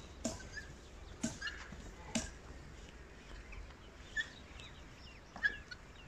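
Quiet farmyard background with scattered short bird chirps and three sharp clicks in the first couple of seconds.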